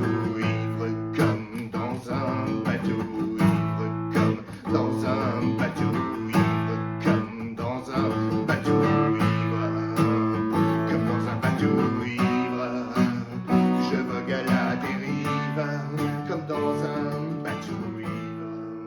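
Instrumental passage on acoustic guitar: plucked and strummed chords with ringing held notes, part of a musical setting of a poem.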